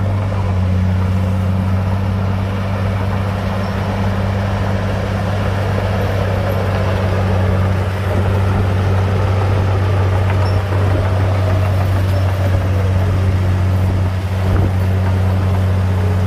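Heavy earthmoving machine's diesel engine running steadily at a constant low pitch, with small dips in loudness now and then.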